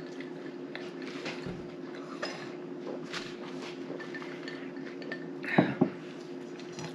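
Light clinks of plates and cutlery and small eating noises at a table, over a steady low hum. A brief louder sound comes about five and a half seconds in.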